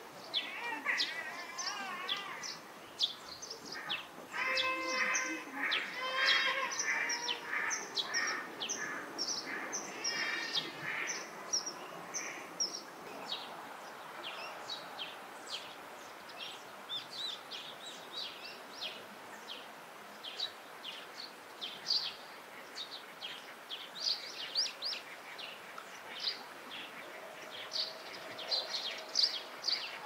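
Wild birds calling: many short, high chirps throughout. A fuller, lower-pitched wavering song is mixed in during the first dozen seconds, over a faint steady hiss of ambient noise.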